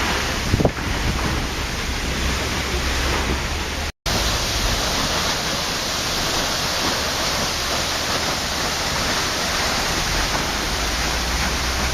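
Waterfall rushing steadily, a dense even wash of falling water. About four seconds in the sound drops out completely for a split second, then carries on.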